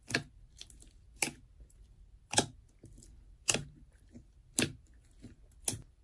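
Six short, sharp clicks, evenly spaced about a second apart.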